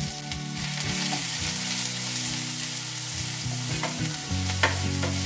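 Ginger-garlic paste sizzling in hot oil in a non-stick frying pan as it is stirred with a wooden spoon, with a couple of sharp taps of the spoon near the end.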